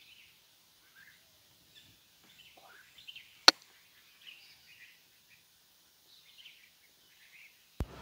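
Scattered short bird chirps, with a single sharp click about three and a half seconds in.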